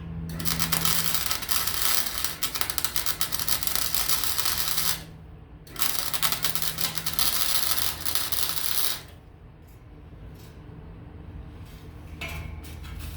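Electric welding arc crackling in two runs, about five seconds then about three, with a short break between, as beads are laid on scrap steel; after that only a few faint clicks.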